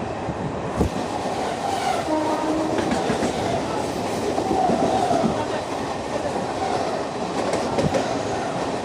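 Express passenger train running on the rails: a steady rumble and rattle of wheels and coaches, with a couple of sharp knocks, one about a second in and one near the end.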